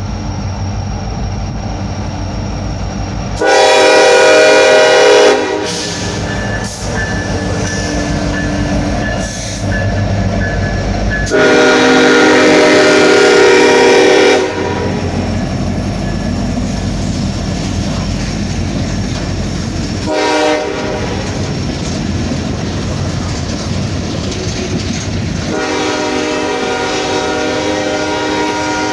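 Diesel freight locomotive close by, its air horn blowing the grade-crossing signal over the engine's low rumble: a long blast, a longer one, a short one, and a final long one that is still sounding at the end.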